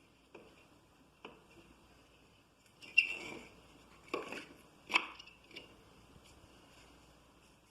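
Small dry wooden kindling sticks knocking and clattering as they are handled and set in a fireplace. The knocks are scattered and light, with a sharp loudest one about three seconds in and two more around four and five seconds.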